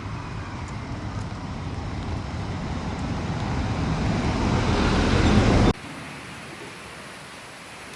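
A steady rushing noise grows louder for about five and a half seconds, then cuts off suddenly and leaves a quieter hiss.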